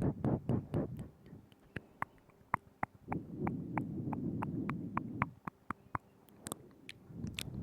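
Close-microphone ASMR mouth sounds: wet tongue and lip clicks, about two or three a second, with a low rushing noise lasting about two seconds in the middle.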